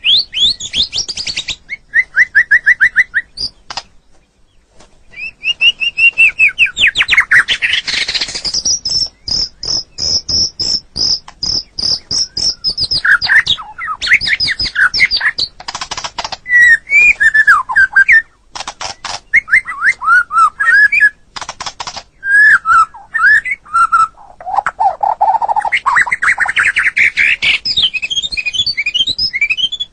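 White-rumped shama (murai batu) singing a long, varied song of rapid trills, gliding whistles and chattering phrases with hardly a break. About a third of the way in it holds a long, fast trill at one high pitch for several seconds.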